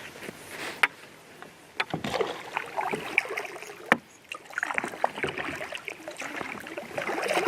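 Water splashing and sloshing around a fishing kayak, with several sharp knocks.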